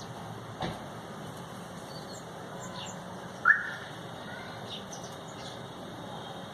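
Small birds chirping with short, scattered high calls, and one louder, sharp note a little past halfway. A brief knock sounds about half a second in.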